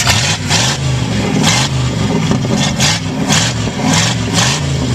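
Chevy 305 V8 with no exhaust fitted, revved in quick repeated blips, the pitch climbing and falling each time.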